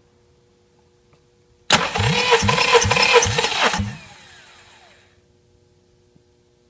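Honda D17A 1.7-litre four-cylinder engine turned over by its starter motor for about two seconds without firing, with a regular low pulse about two and a half times a second, as in cranking for a compression test. The starter then spins down with a falling whine.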